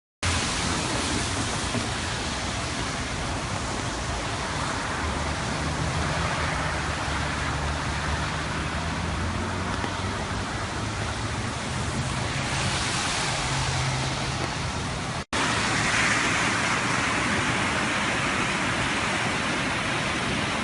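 Steady rush of fast-moving floodwater, with a low hum underneath for much of the first part. The sound drops out for an instant about fifteen seconds in, then the rushing continues.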